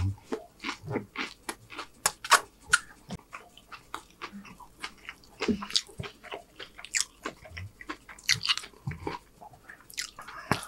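A person chewing a mouthful of food, with many irregular wet clicks and smacks from the mouth.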